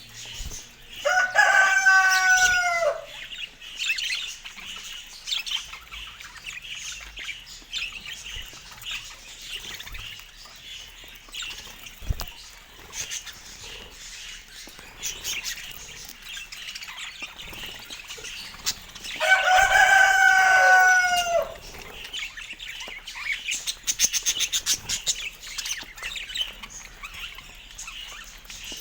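A rooster crows twice, each crow about two seconds long, held level and falling off at the end, over continuous high, busy chirping of small birds.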